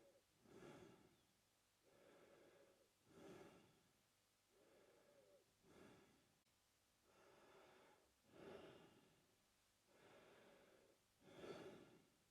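A man breathing slowly and evenly through his mouth: faint, airy in-and-out breaths in a steady rhythm, about one full breath every two and a half seconds. A shorter, sharper breath alternates with a longer, softer one, and one breath near the end is louder.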